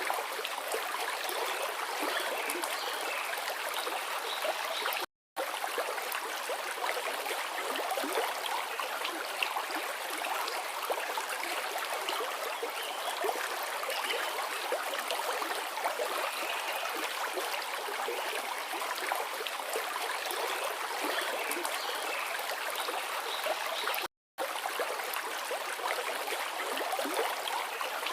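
A forest river flowing steadily, with a continuous rushing and babbling of water. The sound cuts out to silence briefly twice, about five seconds in and near the end.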